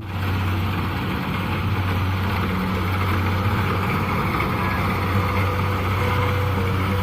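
Kubota DC70 PLUS combine harvester's diesel engine running steadily under a constant low hum.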